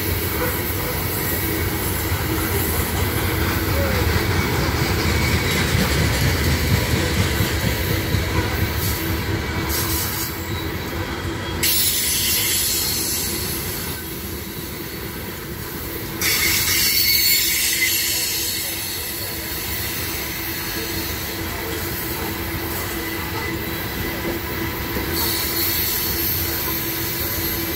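Loaded coal hopper cars of a long freight train rolling past: a steady rumble of steel wheels on the rails, with a thin steady squealing tone running through it. Louder spells of hiss come about twelve and sixteen seconds in.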